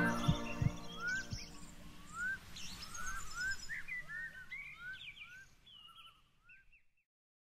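Birds singing: a run of short, rising whistled notes with higher chirps above them, fading out near the end. The last of a choir's chord dies away at the start, with a few soft low thumps in the first second and a half.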